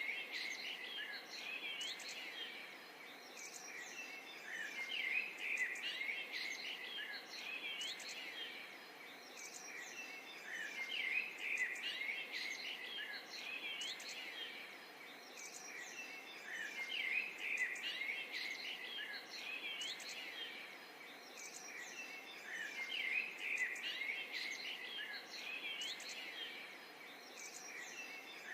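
Many small birds chirping and singing together in a dense, busy chorus of quick high chirps and short whistled glides, swelling and easing in a cycle that repeats about every six seconds, over a light hiss.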